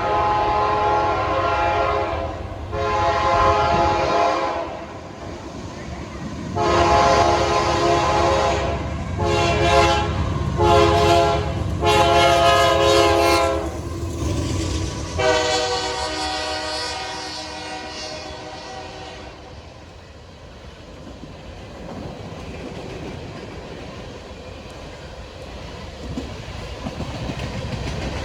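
GE AC44CW diesel locomotive leading an empty coal train, sounding its multi-tone air horn in a series of blasts, several long and a few short, as for a grade crossing, over the low rumble of the engine. After the horn stops, about two-thirds of the way through, the rumble and wheel noise of the passing train go on more quietly.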